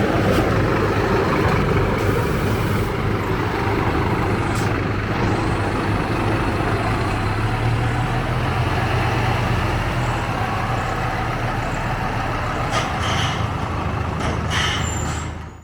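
Scania K250UB city bus diesel engine running steadily, with a few short clicks and hisses near the end before the sound cuts off abruptly.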